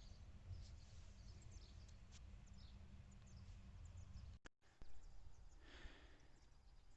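Near silence: faint outdoor ambience with a low rumble and scattered faint bird chirps, then a short breathy rush about six seconds in.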